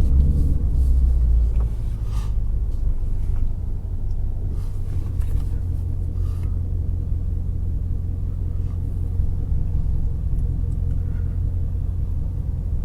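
Shelby GT350R's 5.2-litre flat-plane-crank V8 running at steady low revs, a deep even rumble. It is a little louder at first and settles in the first couple of seconds as the revs come down.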